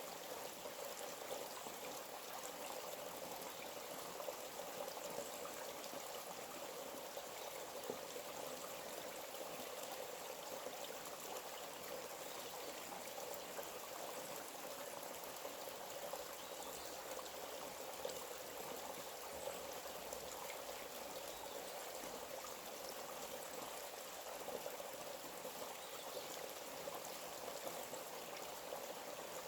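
Forest stream running steadily, an even splashing and trickling of water.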